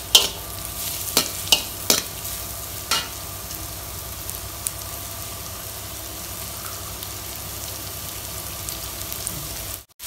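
Sliced onions and green chillies sizzling in hot oil in a metal wok, with a metal slotted spoon clicking and scraping against the pan a few times in the first three seconds as they are stirred. The sound drops out for a moment near the end.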